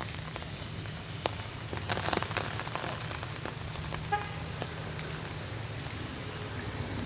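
Rainwater dripping and pattering on leaves and ground after heavy rain, with scattered sharper drops and a cluster of clicks about two seconds in. A steady low hum runs underneath.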